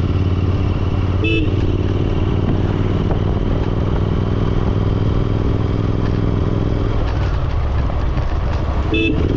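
Royal Enfield Continental GT650's 648 cc parallel-twin engine running at a steady speed while riding. There are two brief beeps, about a second in and near the end.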